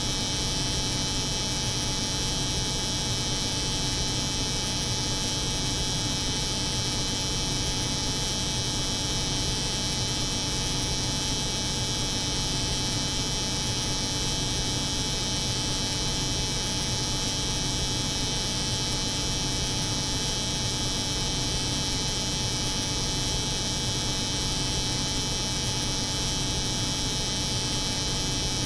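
Steady layered noise of a cold room's refrigeration hum and an electric hair clipper's buzz, a low hum under a bright high hiss, unchanging throughout.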